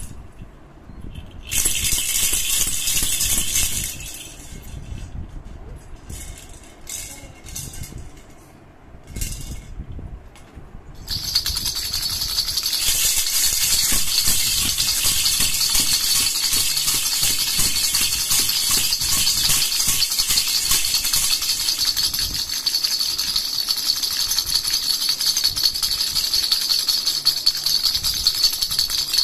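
Handheld baby rattle (jhunjhuna) being shaken: a short loud burst of shaking, a few softer intermittent shakes, then continuous rapid shaking from about eleven seconds in.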